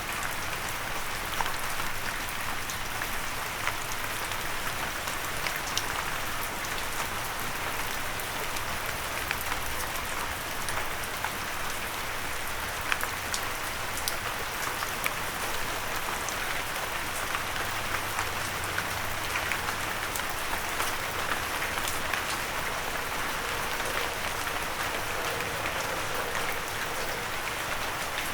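Steady rain with many individual drops ticking on a windowsill.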